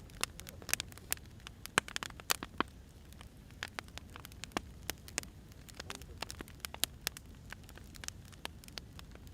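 Burning firewood crackling, with irregular sharp pops over a low, steady rumble of the fire.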